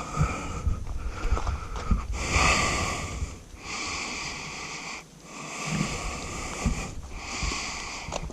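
Mountain bike ride on rough downhill trail, heard from a GoPro: hissing rushes roughly every second and a half, over low knocks and thumps from the bike on the ground.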